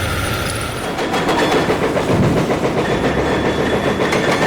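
Heavy machinery running, with a rapid, irregular metallic clatter that sets in about a second in.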